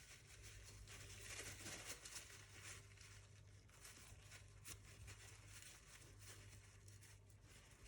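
Near silence: room tone with a steady low hum and a few faint, brief clicks and rustles of small parts being handled.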